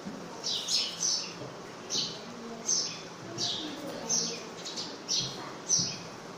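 A bird chirping repeatedly: short, high notes that drop in pitch, about one every half-second to second.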